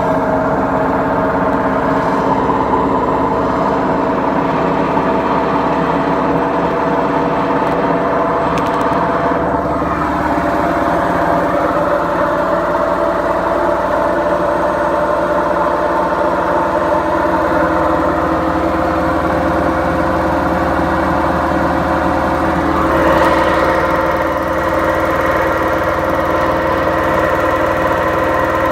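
BEKO washing machine running with its drum turning on worn-out bearings: a loud, steady mechanical drone made of several held tones. The pitch shifts a little about ten seconds in and again near the end.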